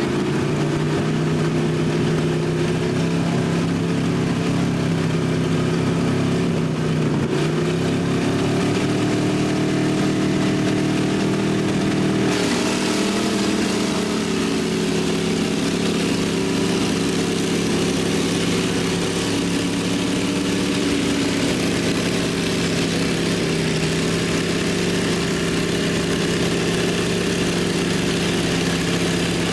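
Truck engines held at high revs under heavy load as two trucks pull against each other in a tug of war. The revs dip briefly about seven seconds in and again about twelve seconds in, then hold steady.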